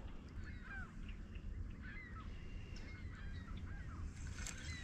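Birds calling in short, scattered chirps and calls over a low, steady background rumble.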